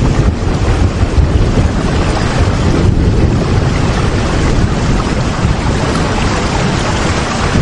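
Heavy, steady rain: a loud, dense, even hiss with a strong low rumble underneath.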